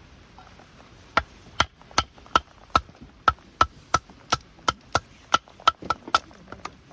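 A quick, even series of about fifteen sharp knocks, roughly three a second, starting about a second in and coming a little faster near the end, like repeated chopping or hammering strikes.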